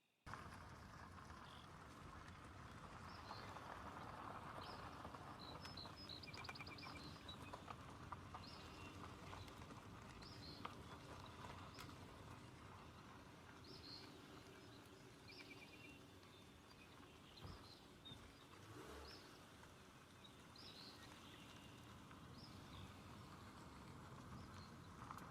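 Birds calling over a faint steady hiss: many short, high chirps scattered through the whole stretch, with a brief trill now and then.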